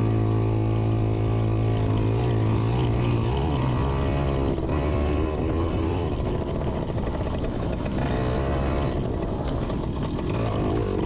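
Yamaha PW80's single-cylinder two-stroke engine running while being ridden, holding a steady note, then easing off to a lower pitch about three seconds in and picking up again near the end.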